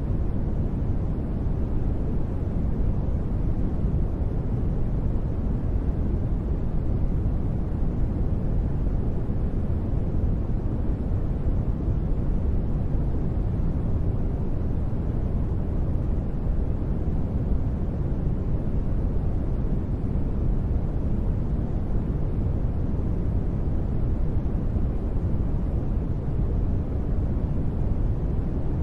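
Continuous sleep white noise: a steady, even rush with no changes, weighted deep toward the bass with little treble, so it sounds more like a low rumble than a bright hiss.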